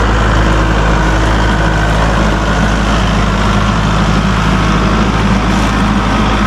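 Tractor engine running loud and steady, with no change in speed.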